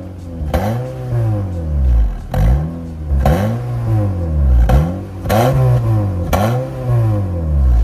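Honda HR-V's R18 1.8-litre four-cylinder engine revved repeatedly through an MS-R valved cat-back exhaust. About one blip a second, each rising and falling in pitch.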